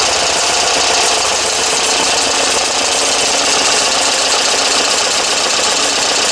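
Pinzgauer 712M's air-cooled petrol engine idling steadily just after being started.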